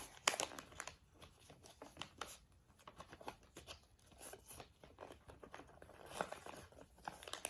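Sheet of paper being folded and creased by hand into a paper airplane: faint, irregular crinkling and rustling with short crisp clicks as the folds are pressed.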